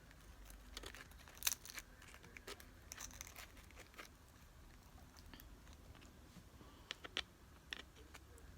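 Faint, scattered crunches of tortilla chips being broken and chewed while eating nachos.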